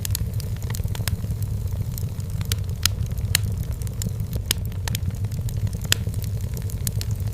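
Wood fire burning in a fireplace: sharp, irregular crackles and pops from the burning firewood over a steady low rumble of the flames.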